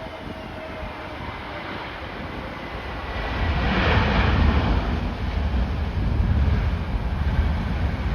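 Jet airliner passing close on approach to land, its engine whine slowly falling in pitch as the roar swells to a peak about four seconds in, under heavy wind buffeting on the microphone.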